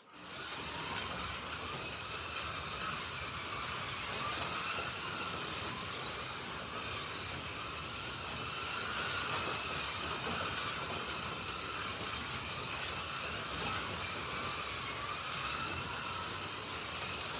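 Several Slot.it 1/32-scale slot cars racing on a track: their small electric motors whining, the pitch rising and falling as the cars speed up and slow for corners, over a steady hiss. The sound starts at once and runs on without a break.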